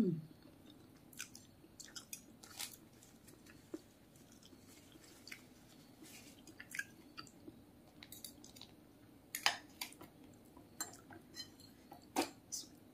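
Close-up chewing and mouth sounds of a person eating soft siomay fish dumplings in peanut sauce: scattered soft, short clicks, with two louder ones in the second half.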